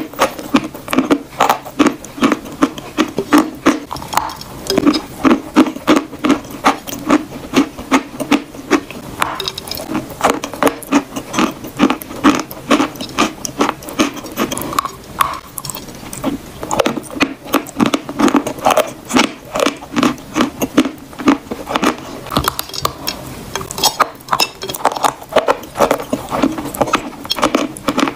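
Close-miked chewing of chalk: a rapid, uneven run of crunches, several a second.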